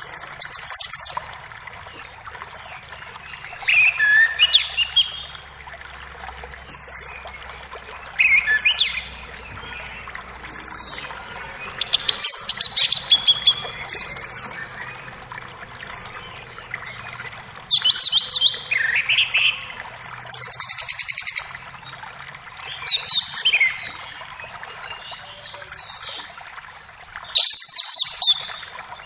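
Several forest birds singing: one repeats a short high note about every two seconds, while others add longer phrases between. Under them runs the faint steady rush of a creek.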